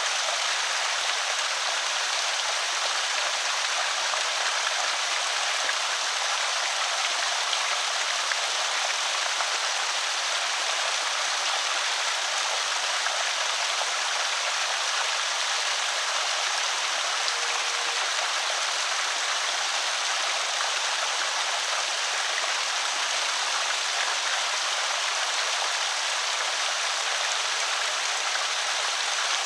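Water spilling steadily over a small creek spillway, an even rushing splash with no breaks.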